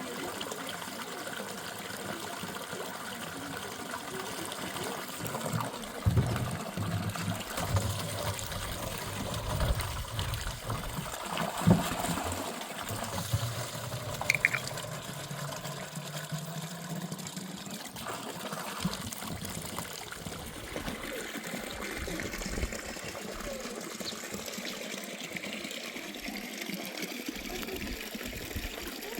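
Running water trickling and pouring steadily, with a series of dull knocks and bumps in the middle.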